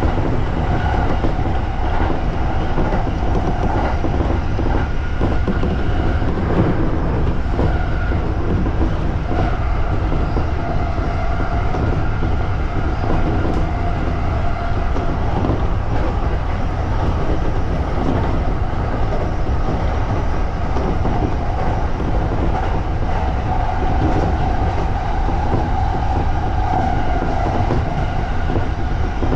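JR East E231 series electric commuter train running at speed, heard from inside the car: a steady rumble of wheels on rail with a steady whine running through it.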